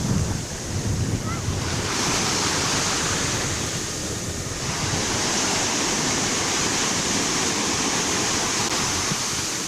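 Ocean surf washing ashore in rolling swells, with wind buffeting the microphone.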